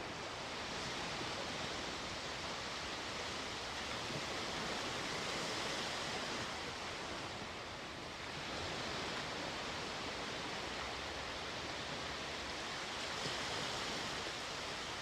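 Sea waves washing onto the shore: a steady wash of surf that eases slightly about halfway through and builds again.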